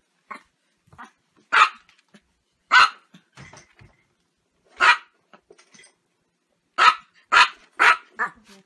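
Small Chihuahua barking: short single barks every second or two, then several in quick succession near the end.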